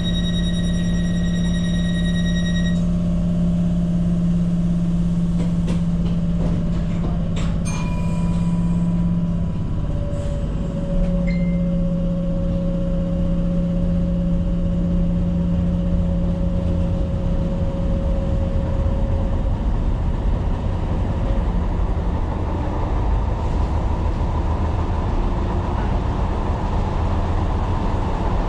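Tyne & Wear Metro train running on the track: a steady low rumble with a motor hum whose tones shift and fade out, a high steady tone for the first few seconds, and a few sharp clicks about a quarter of the way in.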